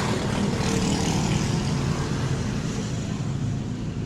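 A steady engine hum runs throughout at an even level.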